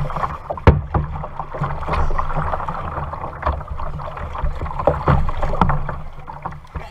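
Kayak being paddled: water splashing and dripping around the paddle, with a few sharp knocks, over a steady low rumble of wind on the microphone.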